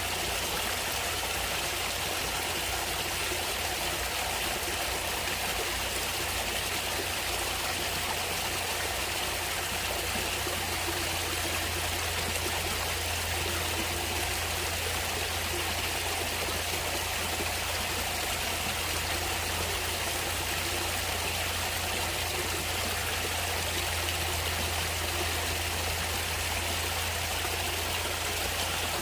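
A natural stream of water flowing and trickling steadily, a constant rushing with no breaks.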